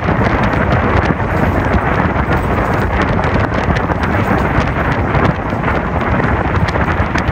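Express train running at speed, heard from close by on board: a loud steady rush of wheels on rails and wind buffeting the microphone, with irregular clacks throughout.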